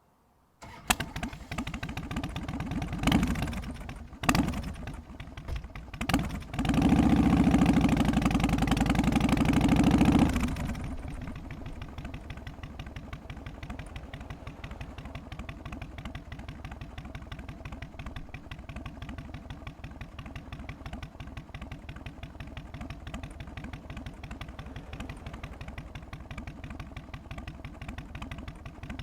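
Harley-Davidson Twin Cam 88 V-twin on an FXST Softail starting up and being blipped a few times, held at higher revs for a few seconds, then settling back to a steady, loping three-beat idle.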